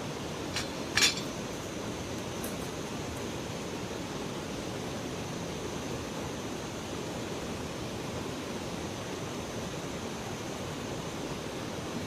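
Steady rushing of river water, with two sharp clicks about half a second apart near the start, the second the loudest.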